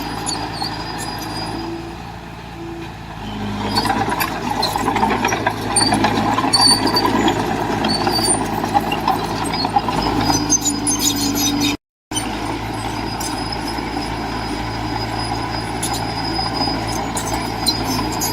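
Heavy diesel earthmoving machinery running steadily, working harder and louder for several seconds in the middle, with short clicks and squeaks over the engine. The sound cuts out for an instant near the middle, then steady running resumes.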